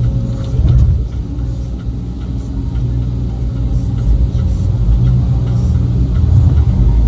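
Heavy loading machine's engine running steadily with a deep, loud rumble.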